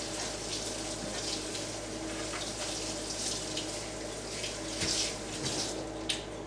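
Tap water running over a partly husked ear of corn as it is rinsed, the splashing rising and falling.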